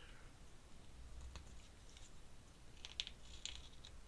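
Faint scratches and ticks of an ink pen on sketchbook paper, a few short strokes, most of them in the second half.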